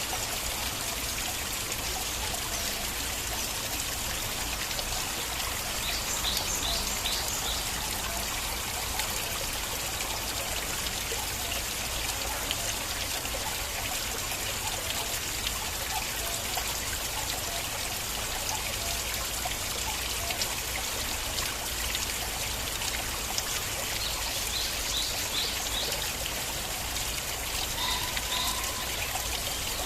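Stream water flowing and trickling steadily. Brief runs of short, high chirping notes come through about six seconds in and again near the end.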